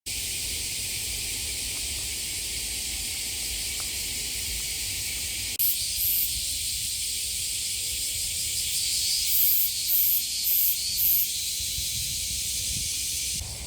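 A dense chorus of cicadas buzzing steadily. The sound changes abruptly after about five seconds, and several short, higher bursts of buzzing stand out about two-thirds of the way through.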